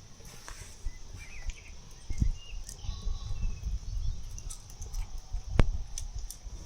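Outdoor ambience: a low rumble of wind on the microphone with a steady faint high hiss, scattered light clicks and knocks, one sharp click about five and a half seconds in, and a few faint short chirps.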